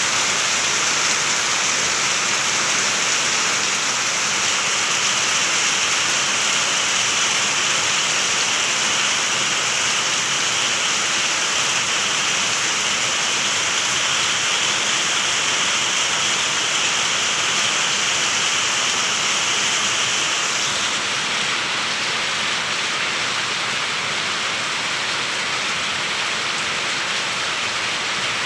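Steady rushing water, like heavy rain or a waterfall, as an even hiss; the brightest, highest part of the hiss eases slightly about three-quarters of the way through.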